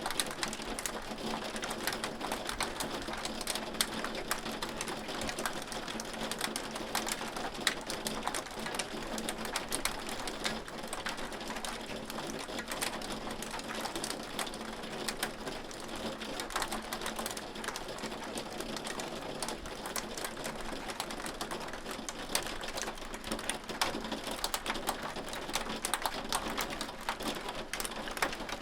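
Hail falling: a dense, irregular patter of small sharp ticks from hailstones striking a surface, over a steady hiss.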